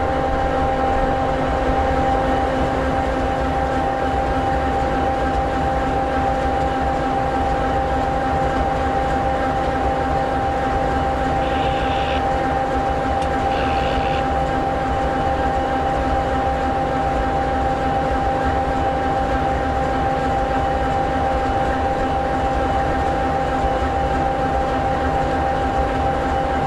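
EMD 16-710G3B sixteen-cylinder two-stroke diesel engine of an SD60E locomotive idling: a steady rumble with a constant hum and several steady tones. Two brief higher-pitched sounds come about halfway through.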